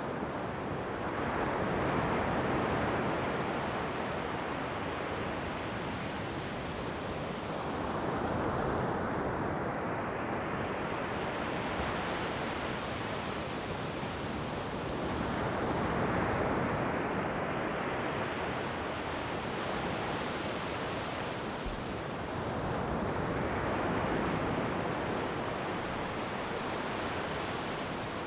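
Ocean waves breaking and washing up a shore, in four slow surges about seven to eight seconds apart.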